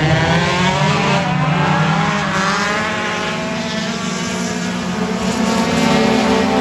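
Race car engine running hard, its pitch rising and falling as the driver works the throttle.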